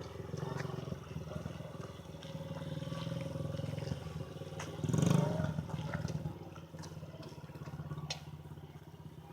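Small dirt bike engine running, swelling louder about five seconds in and then falling back.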